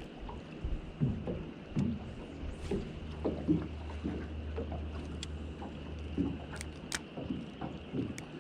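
Small waves slapping and knocking irregularly against a boat's hull, with a steady low wind rumble on the microphone.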